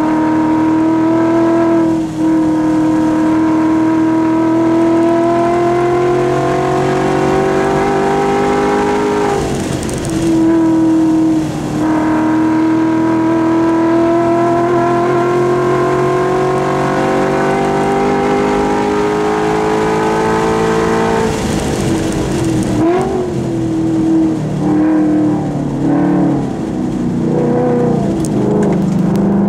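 Ford Mustang track car's engine under hard acceleration, heard from inside the cabin on a hot lap; its pitch climbs slowly through long pulls. The engine lifts off and comes back twice, about a third and about two-thirds of the way in, with shorter changes of pitch near the end.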